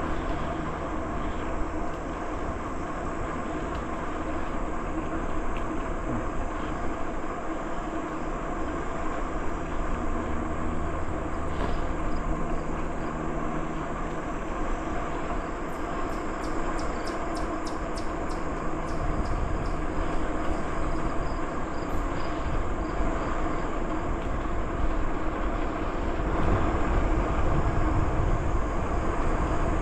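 Steady rolling noise of a bicycle ride along a trail, with a low rumble that grows stronger in the second half.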